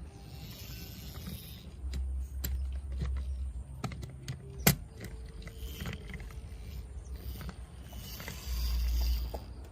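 Toy trucks being handled and rolled: two spells of low rumble, scattered small clicks, and one sharp click about halfway through.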